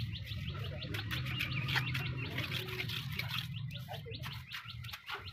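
Small birds chirping in rapid runs of short high notes, over a steady low hum.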